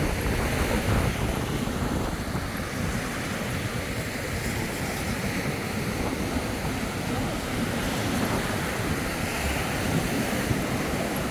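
Caribbean sea surf washing onto a sandy beach, swelling and easing, with wind buffeting the microphone in a steady low rumble.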